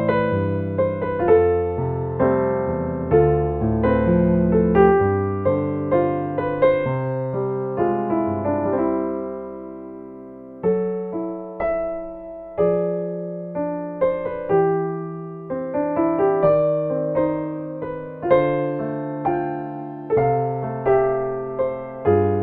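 Solo piano playing a ballad, a melody over sustained chords with each note struck and dying away. Around ten seconds in the playing softens and fades, then picks up again with a new phrase.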